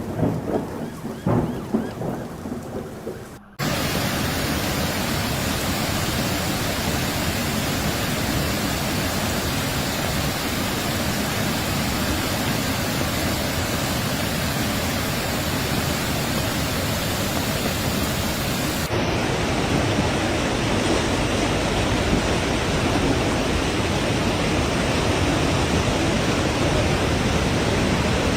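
Heavy rain and rushing water making a dense, steady noise. It follows a short stretch of uneven, gusting noise that cuts off abruptly about three and a half seconds in.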